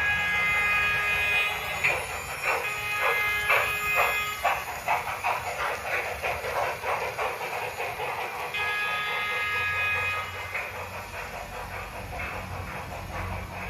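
Big Boy model steam locomotive sound effects: a chime steam whistle blows, then the exhaust chuffs rhythmically, several beats a second. The whistle sounds again a little past the middle.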